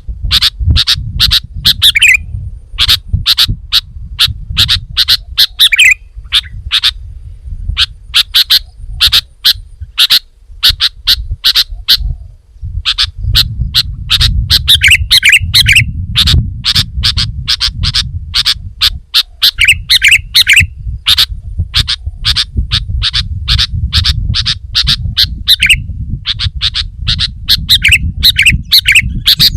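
Sooty-headed bulbul (kutilang) singing energetically: rapid strings of short, sharp chirps, broken now and then by slurred whistled phrases, over a low rumble.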